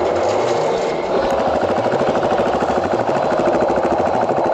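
KTM 500 dual-sport's single-cylinder four-stroke engine running at low speed, a steady, fast, even pulse.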